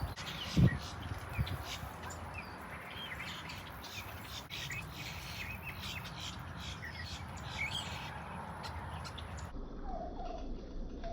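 Wild birds chirping: many short, overlapping calls, with a single loud thud about half a second in. Near the end the chirping stops and a couple of lower-pitched calls are heard.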